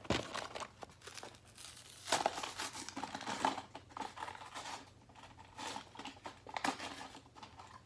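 Toy packaging being handled and opened: irregular crinkling and tearing.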